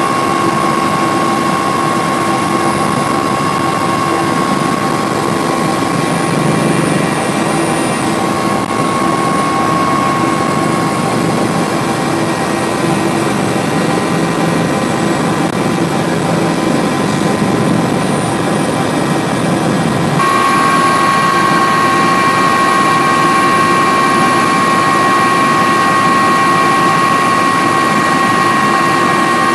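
Steady engine drone with a constant whine. It changes abruptly about two-thirds of the way through, becoming slightly louder and brighter.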